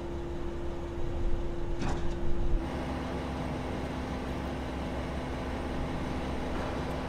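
Rolls-Royce engine idling: a steady low hum with a light background rush. A couple of faint clicks come in the first two seconds, and the hum shifts slightly lower about two and a half seconds in.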